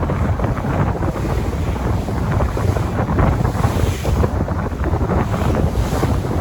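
Sea waves washing and surging in a continuous wash of noise, with wind buffeting the microphone as a heavy low rumble.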